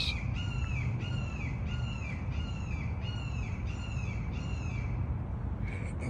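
A bird calling in a steady rhythmic series, about two loud arched, falling notes a second, stopping about five seconds in. A low steady rumble runs underneath.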